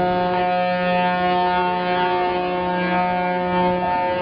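A boat's horn sounding one long steady blast of about four seconds, several tones held together.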